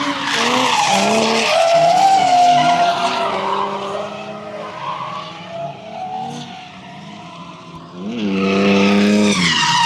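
Drift car sliding with tyres squealing while its engine revs up and down. It is loud at first, eases off in the middle, then revs hard and climbs again near the end.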